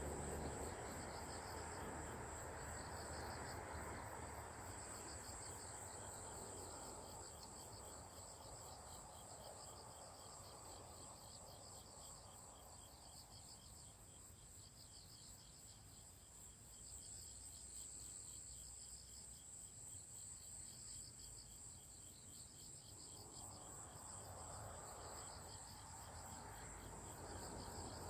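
Crickets or similar insects chirping: a steady high trill with trains of pulsed chirps repeating about every second and a half. Under it runs a faint low rushing noise that dies away mid-way and swells again near the end.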